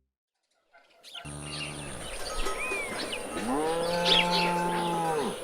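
Rice-field ambience with many birds chirping and a steady high-pitched whine, starting about a second in after a moment of near silence. A short low call sounds just after it starts, then a longer low call that rises, holds for over a second and drops away near the end.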